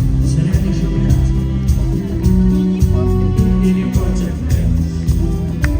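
Rock band music with guitar over a steady beat, in a passage without clear vocals.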